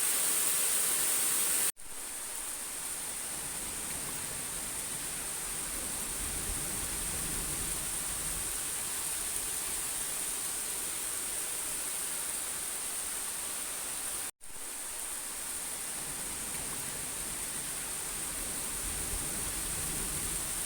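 Steady rain falling, a continuous even hiss, broken by two abrupt split-second gaps, about two seconds in and about fourteen seconds in.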